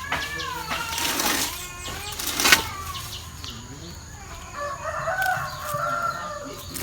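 Chickens calling, with a longer wavering call from a rooster or hen in the second half; a sharp click about two and a half seconds in.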